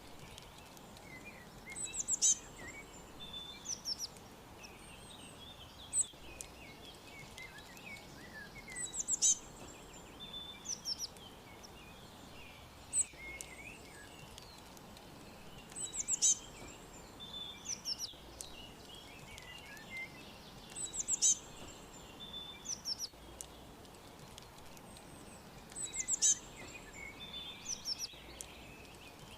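Wild songbirds chirping: bursts of quick, sharp, high chirps every few seconds over softer, lower twittering, with a faint steady hiss of background noise.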